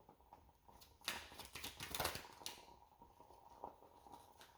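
Playing-size oracle cards being handled on a table: soft rustles and light clicks, busiest from about one to two and a half seconds in.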